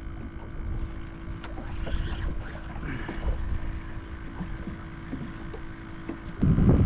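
Wind buffeting the microphone on an open kayak, with faint small knocks and water sounds around the hull. A much louder rush of wind sets in near the end.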